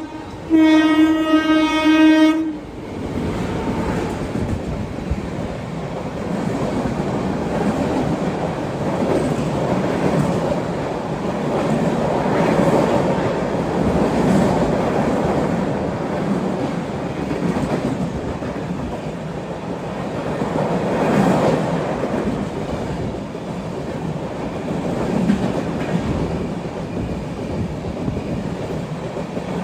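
Express train's horn sounding one steady blast of about two seconds near the start, then the train running on with a rumble and the clickety-clack of wheels on the rails.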